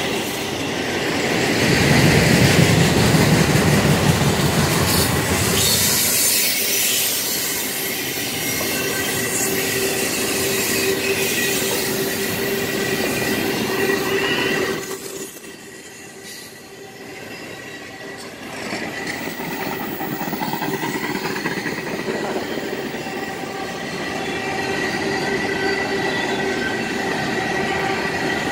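Double-stack container freight train rolling past, its steel wheels rumbling on the rails with a steady high-pitched wheel squeal. The rumble is loudest in the first few seconds and drops off for a few seconds past the middle.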